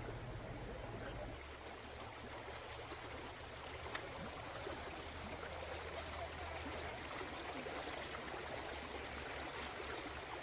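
Steady rush of flowing water, with a few faint knocks.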